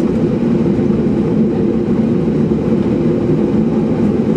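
Steady cabin noise of a Boeing 737-800 with its CFM56-7B engines running, a constant low drone with a few humming tones.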